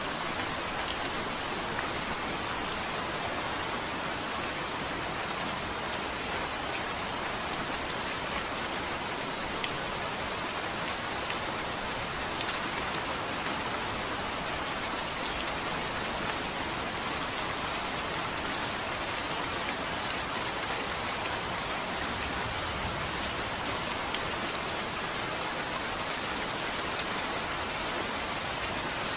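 Steady rain falling on a surface, a continuous even hiss with scattered drop ticks.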